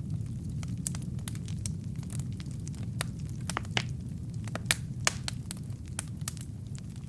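Wood fire burning in a fireplace: a steady low rumble of flame with frequent irregular sharp crackles and pops from the logs, one louder pop a little before five seconds in.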